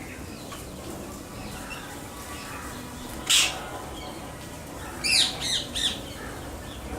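Birds calling: one loud harsh squawk about three seconds in, then three quick calls near the end, over faint scattered chirping.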